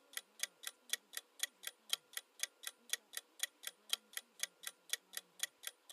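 Countdown timer sound effect ticking steadily, about four ticks a second.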